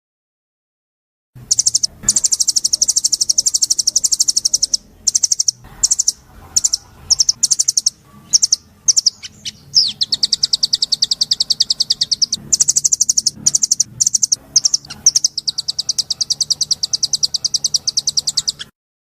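Songbird singing long runs of rapid, high trilling notes, broken by shorter separate chirps around the middle. It starts about a second in and cuts off abruptly just before the end.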